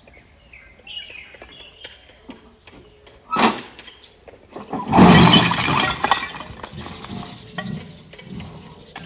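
Demolition rubble crashing and clattering, the loudest crash about five seconds in, after a single sharp knock a little before.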